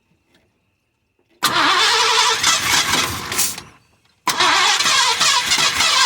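A long-idle car engine being cranked by its starter in two bursts: one of about two seconds beginning about a second and a half in, and a second from about four seconds in that carries on.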